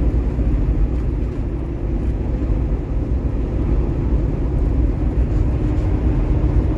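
Kenworth T680 semi truck driving: a steady low drone of engine and road noise.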